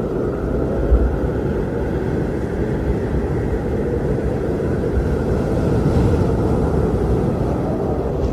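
Strong blizzard wind blowing in a steady low rumbling roar, with deeper gusts swelling about a second in and again around five to six seconds.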